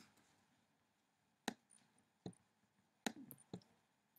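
A few faint, sharp clicks of a computer mouse, spaced about a second apart with a quick cluster a little after three seconds, over near-silent room tone.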